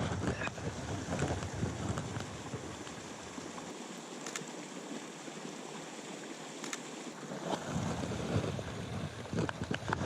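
Wind noise on the microphone, gusting near the start and end and easing in the middle, with a couple of sharp clicks.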